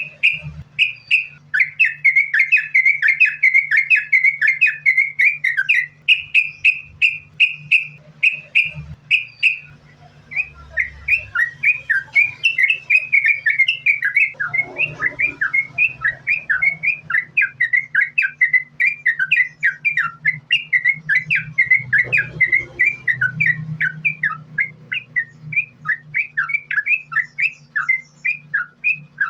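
Yellow-vented bulbul (trucukan) singing a rapid, continuous string of short chirping notes, several a second, in the nonstop 'sambung ropel' style used as lure song to set other trucukan singing. The song breaks briefly about ten seconds in, over a steady low hum.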